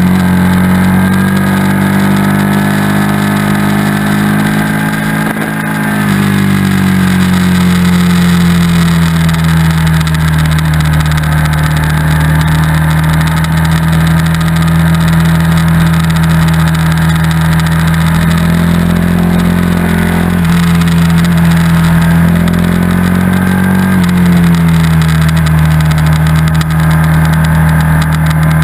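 Motorcycle engine running hard at track speed, recorded on board the bike. Its steady note drops sharply about six seconds in, rises twice later on with the throttle, and drops again near the end.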